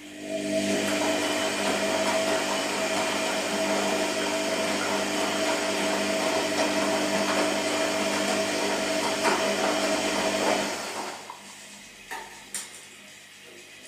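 A small electric appliance motor starts, runs steadily with a high whine, and winds down about eleven seconds in, followed by two short clicks.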